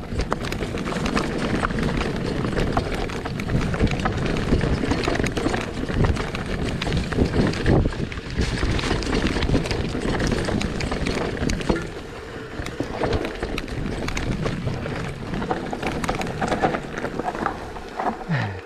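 Mountain bike rolling fast over a rocky trail: a steady rattle of tyres, chain and frame over stones, with many small knocks and wind rushing on the helmet camera's microphone.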